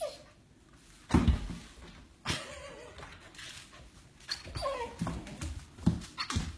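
A dog whimpering and whining in short bursts, with a few low bumps in between.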